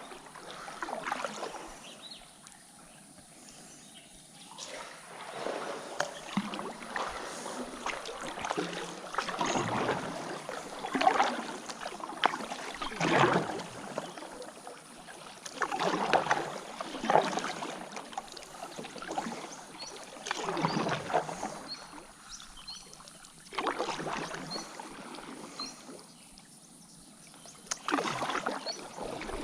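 Kayak paddle blades dipping and pulling through river water: splashy swishes every second or two, with a few quieter pauses between runs of strokes.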